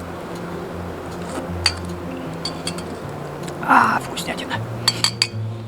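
Metal spoon clinking a few times against a metal camp pot while eating, over background music with held notes.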